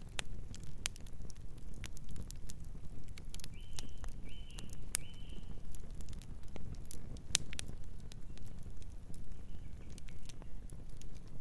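Wood fire crackling, with frequent sharp pops and snaps over a steady low rumble of burning. A distant bird gives three short chirps about four to five seconds in, and fainter ones later.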